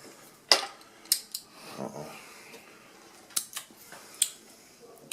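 Sharp, separate clicks and taps of plastic Flow Hive frame caps being worked out of the frame with pliers, about seven over the few seconds.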